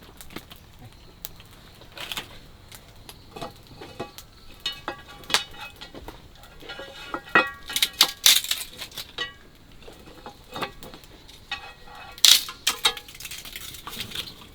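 Metal cooking utensils clinking, knocking and scraping against a pot or pan during stir-frying, with irregular sharp clinks, some ringing briefly, busiest in the middle and again near the end.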